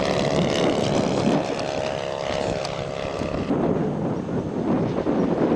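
Engine and propeller of a large radio-control scale model airplane (an RV) on a flyby, a steady pitched engine note that fades about three and a half seconds in, with wind buffeting the microphone.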